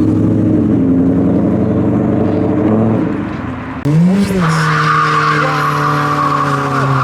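A car's engine running at low revs, then about four seconds in it revs sharply and holds high, steady revs while a tyre squeals as it spins, typical of a burnout.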